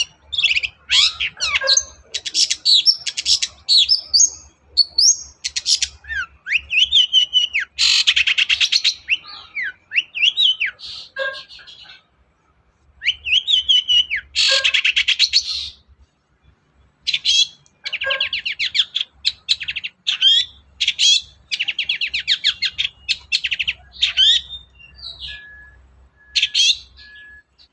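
Long-tailed shrike (cendet) singing a fast, varied song of chirps, whistled glides and harsh rattling trills, strung together in bursts with short pauses.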